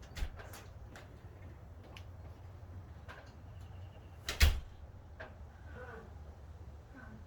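A few light clicks and a sharp knock, then one much louder thump about four and a half seconds in, over a low steady hum.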